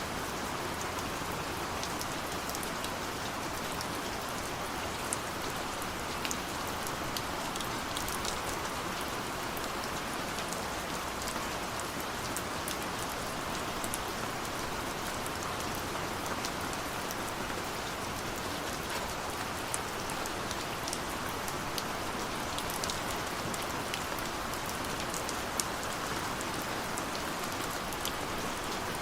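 Steady rain falling, a constant hiss with the clicks of individual drops striking a surface scattered through it.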